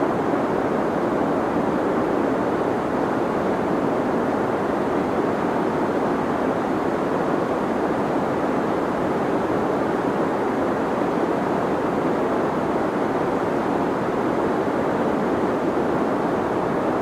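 Steady deep white noise for sleep: an even, unchanging hiss weighted toward the low and middle range, with the highs rolled off.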